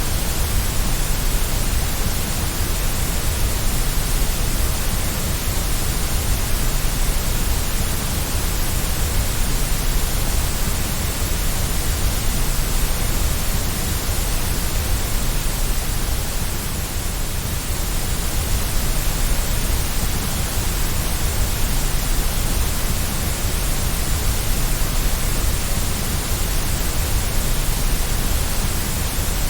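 Steady white noise for baby sleep: an even, unbroken hiss with a deep rumble underneath.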